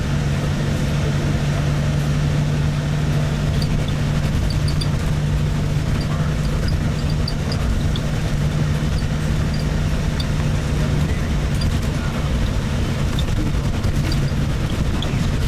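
Cabin noise of a moving tour vehicle: a steady engine hum and road rumble, with small scattered ticks and rattles over it.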